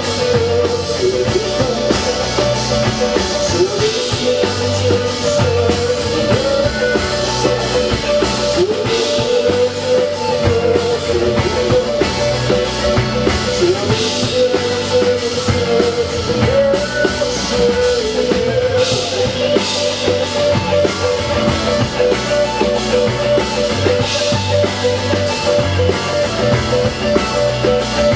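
Rock band playing live: drum kit and guitars, with a melodic lead line wandering over a steady beat.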